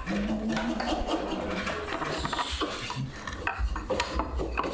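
Hand tool scraping and rasping on wood in irregular strokes, with sharp knocks and clicks in between.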